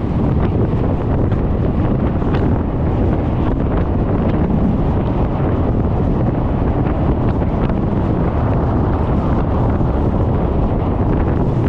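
Wind buffeting the microphone of a GoPro mounted on a moving motor scooter, a steady heavy rumble.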